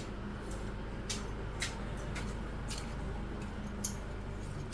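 Light metallic clicks about twice a second from hand wrenches being handled and worked, over a steady low hum.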